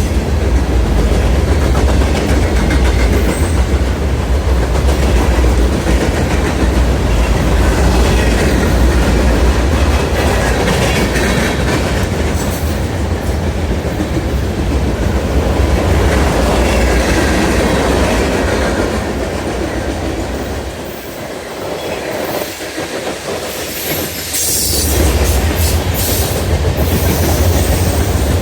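Freight train rolling past: a steady heavy rumble of the cars, with wheels clacking over the rail joints and some wheel squeal. The rumble eases for a few seconds about three-quarters of the way through, then builds again.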